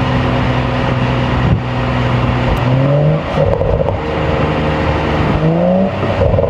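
BMW M235i's turbocharged 3.0-litre inline-six running steadily, then revving up twice: once about two and a half seconds in and again near the end. The engine is heard under a steady rush of tyre and road noise.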